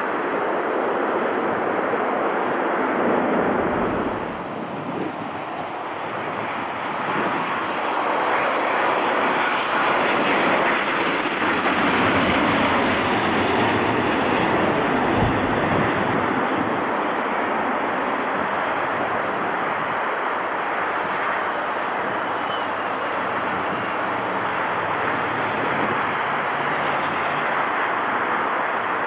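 Jet airliner's engines passing, a steady rushing roar that builds to its loudest about halfway through. A high engine whine falls in pitch as the roar peaks.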